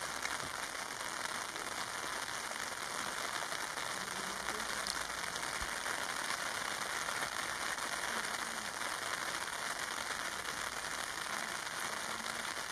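Steady rain falling on foliage: an even, unbroken hiss.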